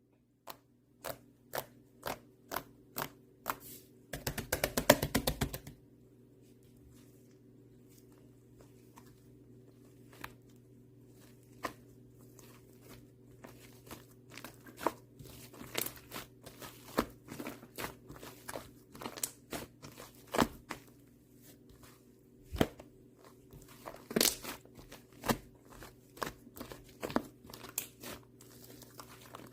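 Whipped-cream-textured slime being pressed and squished by hand, giving crisp clicking and crackling pops: a few single clicks about every half second, then a fast run of crackles about four seconds in, then quieter scattered clicks. A steady low hum runs underneath.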